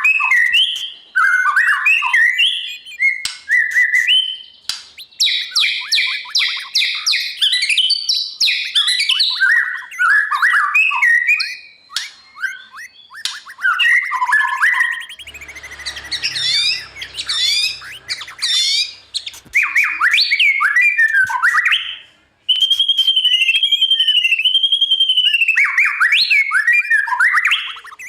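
White-rumped shama singing a long, varied song of loud whistled phrases and quick trills, ending on a string of repeated arching whistles.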